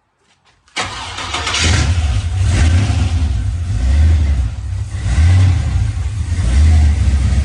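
Aluminum 6.0-litre LS V8 in a 1965 Chevy Nova firing up for its first start after the engine swap, catching suddenly about a second in and then running unevenly, its level swelling and falling several times.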